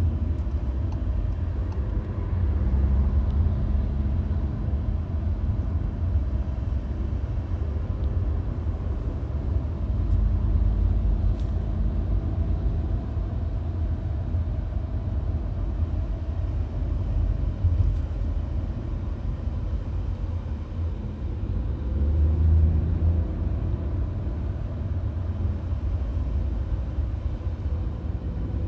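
Road noise inside a VW Golf at motorway speed: a steady low rumble of tyres and engine, swelling slightly about two-thirds of the way through.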